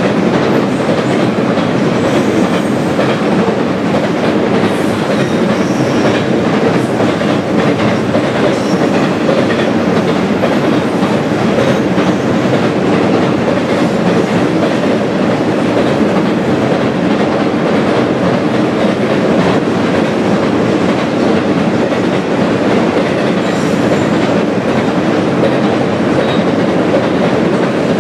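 Double-stack intermodal freight train rolling past on a bridge: a steady rumble of steel wheels on rail with continuous clickety-clack over the rail joints.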